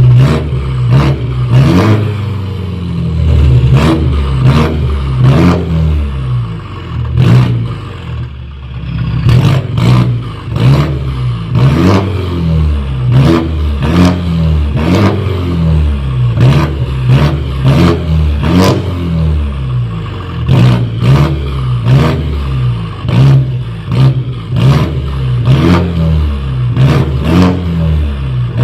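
BMW G30 530i's 2.0-litre turbocharged four-cylinder engine revved again and again through a full-system performance exhaust, the pitch rising and falling with each throttle blip. Sharp cracks come from the exhaust about once or twice a second.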